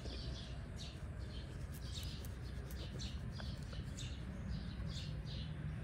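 Small birds chirping: short high notes repeating about two or three times a second, over a steady low rumble.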